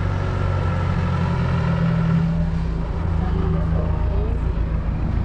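A motor vehicle engine idling steadily, with a low, even hum.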